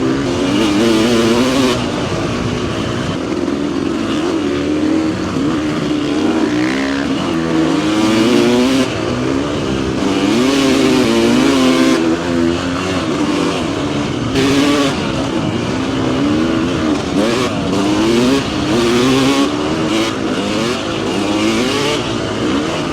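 Dirt bike engine revving hard and easing off again and again while riding a trail, its pitch climbing and dropping many times as the throttle is worked.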